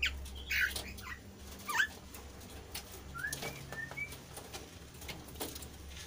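A caged kasu-kasu bird calling: a few sharp, quickly falling chirps in the first two seconds, then three short rising whistled notes, among scattered light clicks and wing flaps.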